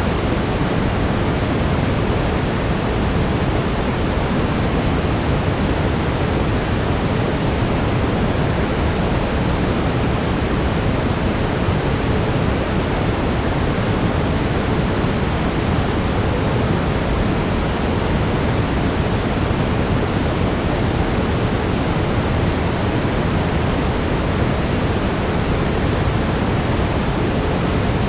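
Steady brown noise, an even, deep hiss strongest in the low end and unchanging throughout, with a faint steady tone near 432 Hz laid under it.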